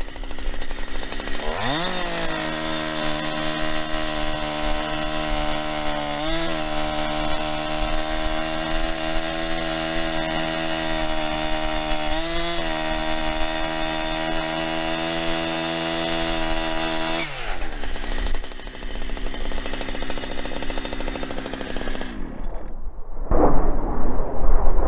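Holzfforma 372XP two-stroke chainsaw revving up about a second and a half in and holding at a steady speed through a cut for about fifteen seconds, with two brief dips, then dropping back to idle. It will not climb into high RPM, which the owner takes as a sign that the carburetor needs tuning.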